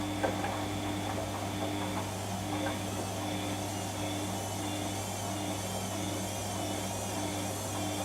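Washing machine running, with a steady low hum and a mid-pitched tone that pulses on and off about twice a second. There are a few light knocks in the first second.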